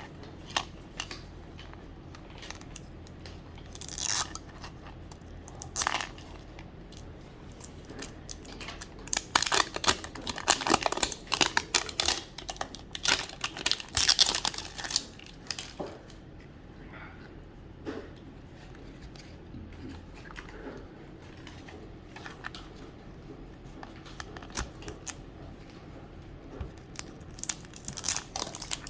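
Plastic wrapping crinkling and tearing, with light plastic clicks, as a Mini Brands capsule ball is opened and its small wrapped items unwrapped. The handling is busiest and loudest in the middle.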